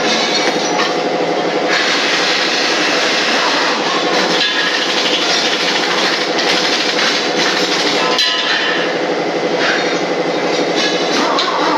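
A machine running loudly and steadily, with a couple of brief knocks about four and eight seconds in.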